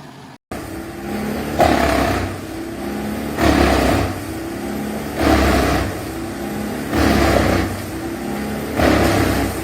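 Large wood chipper running, its engine humming steadily while a louder grinding surge of wood being chipped comes about once every two seconds, five times.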